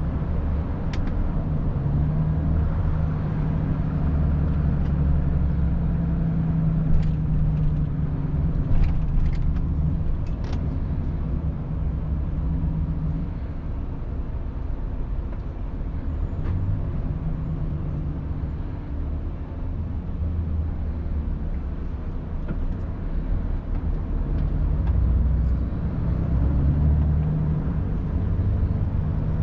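Volvo FH 500 truck's 13-litre six-cylinder diesel engine running while driving, heard inside the cab as a low drone whose strength rises and falls, with road rumble. A few light clicks come between about 7 and 11 seconds in.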